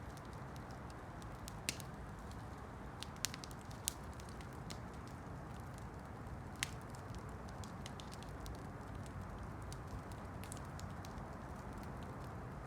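Campfire burning, with a steady low hiss and scattered crackles and sharp pops from the burning wood, the loudest four snaps in the first seven seconds.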